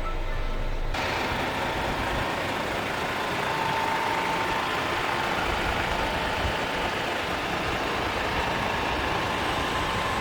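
Hino 700 truck's diesel engine idling steadily; the sound changes abruptly about a second in.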